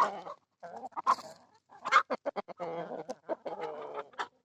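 Chickens clucking: a run of short clucks with a few longer, drawn-out calls in the second half.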